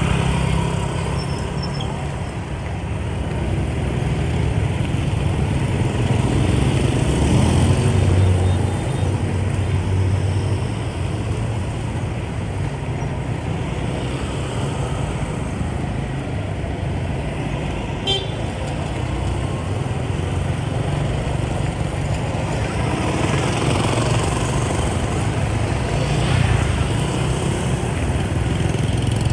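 Dense motorbike rush-hour traffic heard from a moving motorbike: a steady mix of many small engines and tyre noise that swells and eases, with horn honks among it.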